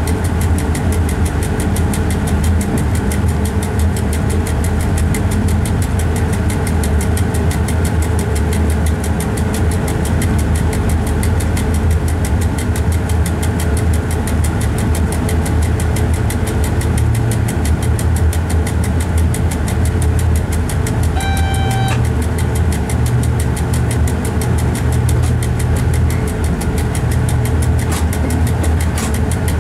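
Steady low drone of a train heard from inside the driver's cab as it moves along the line, with a short electronic beep about two-thirds of the way through.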